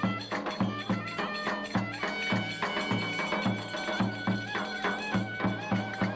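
Traditional folk music: a reedy wind instrument plays an ornamented melody over a steady drum beat of about three strokes a second.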